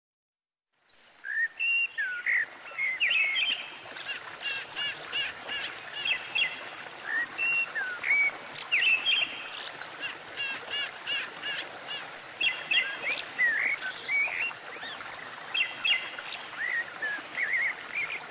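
Several birds chirping and calling at once, starting about a second in: many short, quick notes that rise and fall, overlapping over a steady outdoor hiss.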